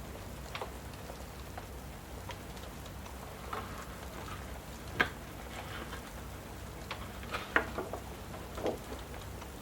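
Steady rain with a wood fire crackling over it: scattered sharp pops, the loudest about five seconds in and a cluster around seven and a half seconds.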